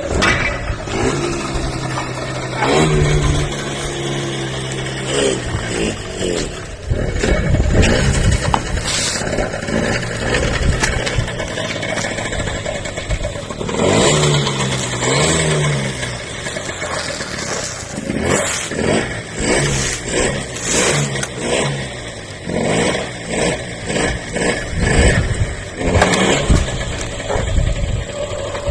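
Engine revving: a steady running hum that rises in pitch a few times, then a series of short throttle blips, roughly one a second, in the second half.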